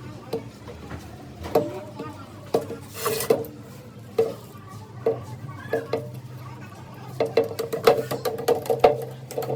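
Metal being struck repeatedly, each tap ringing briefly: scattered taps at first, then a quick run of several taps a second near the end.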